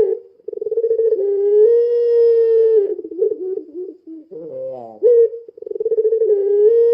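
Puter pelung dove cooing: a fast rolling trill that runs into a long, drawn-out low coo, then the same phrase again about five seconds in.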